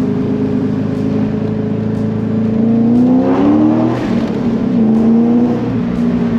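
Car engine heard from inside the cabin, running steadily, then revving up as the car accelerates about three seconds in, dipping briefly, and pulling up again. A faint tick sounds about once a second throughout.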